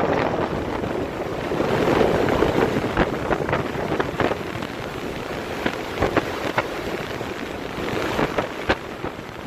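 Wind buffeting the microphone on a moving boat, a steady rush with scattered sharp taps through the middle.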